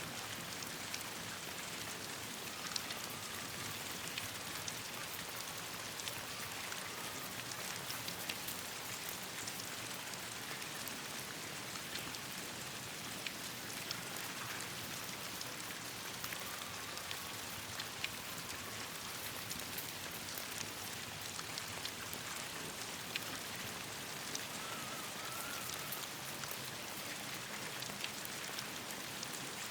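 Steady rain falling, with many scattered sharp drop ticks throughout.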